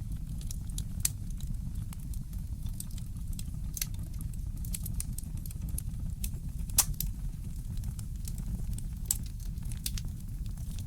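Fireplace crackling: scattered sharp snaps and pops over a steady low rumble, with one louder pop a little past halfway.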